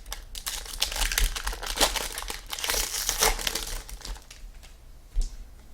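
A trading-card pack wrapper crinkling as it is torn open and crumpled, for about four seconds, then a single sharp tap a little after five seconds in.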